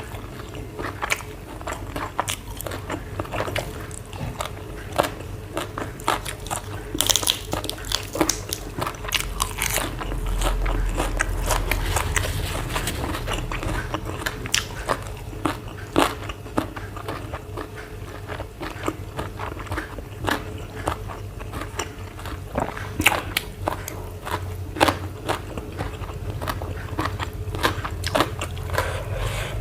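Close-up eating sounds: repeated biting, crunching and chewing of crisp food, with irregular sharp crunches throughout and a denser crunch about seven seconds in. A faint steady hum runs underneath.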